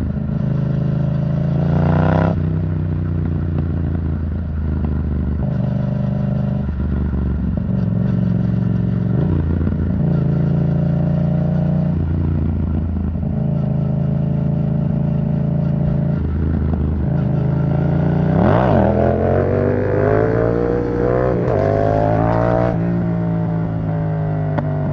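Yamaha MT-07's parallel-twin engine through an Arrow Thunder titanium exhaust, riding along at fairly steady revs that change in steps. About 18 seconds in it revs up sharply, and the pitch swings up and down for several seconds before settling again.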